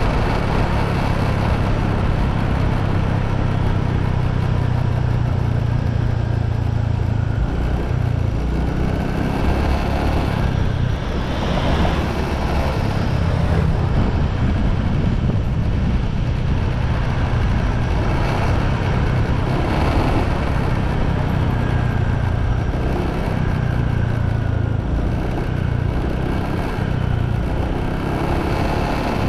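Motorbike running at road speed while being ridden, a steady low rumble with a broad rush of noise over it that swells briefly a few times.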